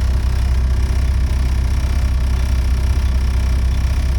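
Volvo B7TL bus's six-cylinder diesel engine running steadily with a deep low rumble, its exhaust blown and rattly.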